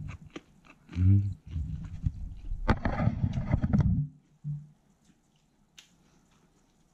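Close-up chewing of a mouthful of grilled pork belly, dense and wet with many small clicks, for about three seconds. A short hummed "mm" comes about a second in and another near four and a half seconds. After about five seconds it is nearly quiet, with a few faint clicks.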